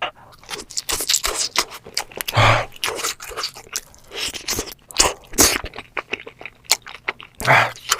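Close-miked eating sounds: a person chewing and crunching food, with many sharp wet mouth clicks and crackles.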